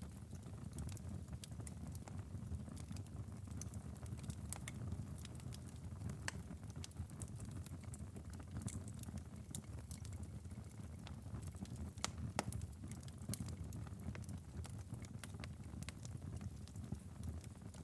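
Wood fire in a fireplace, crackling with irregular sharp pops and snaps over a steady low rumble of burning.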